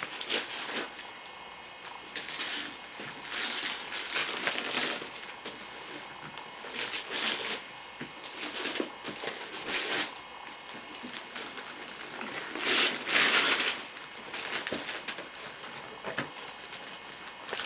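Wrapping paper being torn and crumpled as a present is unwrapped, in irregular rustling bursts every second or two.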